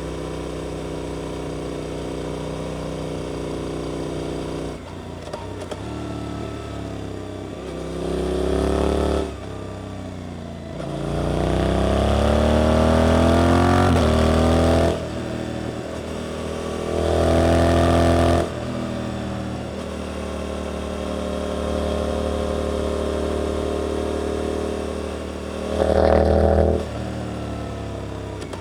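Suzuki GSX-8S parallel-twin motorcycle engine through an aftermarket Arrow exhaust, heard from on board while riding. It runs steadily, then opens up in throttle bursts: a long rising-pitch acceleration around the middle, with shorter surges before and after it, and steady cruising in between.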